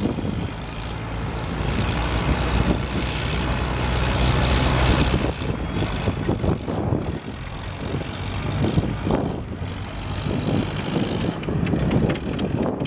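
Antique farm tractor engine working hard under load in a tractor pull. The steady engine note is loudest about four to five seconds in, then drops back and turns uneven.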